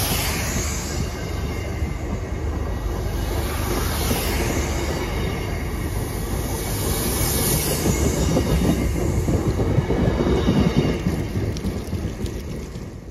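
MBTA commuter rail bilevel coaches rolling past along the platform, their wheels running on the rails in a steady rolling noise. It grows louder about two-thirds of the way through, then dies away near the end as the last car clears.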